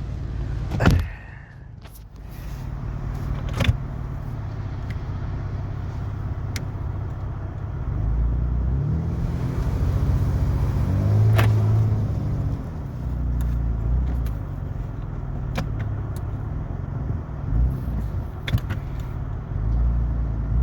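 Jeep Cherokee engine running in 4x4 and revving under load while it tries to tow a stuck tractor out with a rope. The revs climb from about eight seconds in, are highest around eleven to twelve seconds, then ease off. Several sharp clicks or knocks are scattered through.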